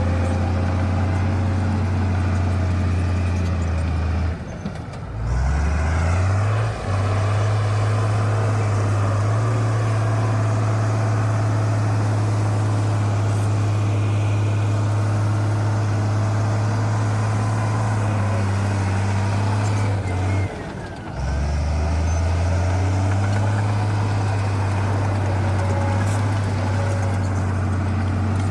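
Bulldozer diesel engine running steadily. Its note drops away briefly twice, about four seconds in and again about twenty seconds in, and each time climbs back up to full speed.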